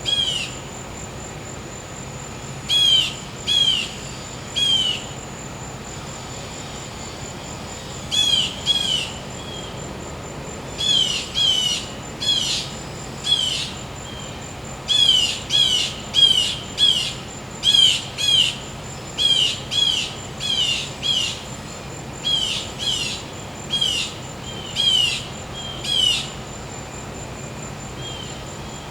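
A bird calling over and over in short, downward-sweeping notes, coming in clusters of two to four with gaps, thickest from about eight seconds in to near the end. Under it runs a steady high insect trill and a faint low hum.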